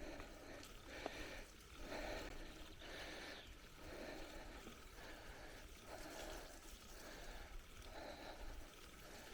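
A cyclist's heavy, rhythmic breathing while riding hard, about one breath a second.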